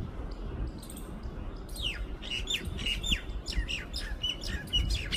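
Parrots calling in a rapid series of short, squawky notes that dip and rise in pitch, starting about two seconds in, over a steady low rumble.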